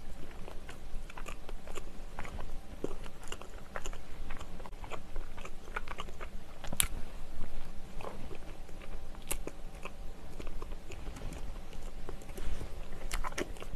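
Close-miked chewing of a soft cream-cheese brioche with blueberries: soft, wet mouth sounds with scattered small clicks and a few sharper ones.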